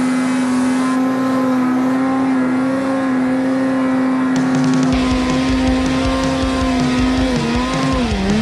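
Snowmobile engine running at steady high revs, holding one even pitch. A deeper rumble joins about five seconds in, and near the end the revs dip and rise as the throttle is worked.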